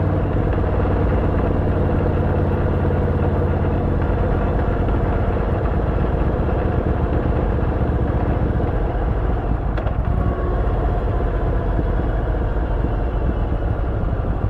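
Yamaha Vmax 1700's V4 engine running steadily through an Akrapovič exhaust fitted with a dB-killer, at an even pitch, with a short click about ten seconds in.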